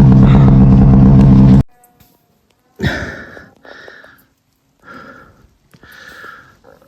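Snowmobile engine running loud and steady, then shut off abruptly about a second and a half in. After it, a few short, heavy breaths from the rider.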